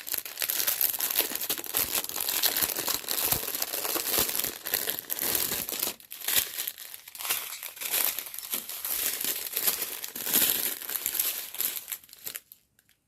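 Small plastic bags of diamond-painting drills crinkling as they are handled, a dense, continuous crackle that stops about a second before the end.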